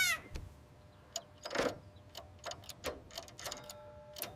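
Scattered light clicks and ticks at uneven spacing, with a brief soft whoosh about a second and a half in.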